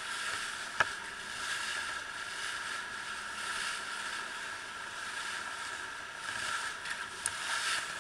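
Small ferry boat under way: steady engine and water noise, with a sharp click about a second in and another near the end.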